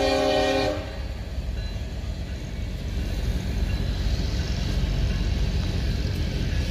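A locomotive horn chord cuts off about a second in, leaving the steady low rumble of a freight train's cars rolling past on the rails.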